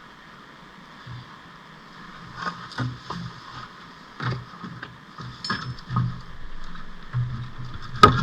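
Scattered knocks and clunks from hands and tools working on a car during a clutch job, the loudest a sharp knock near the end, over a steady background hum.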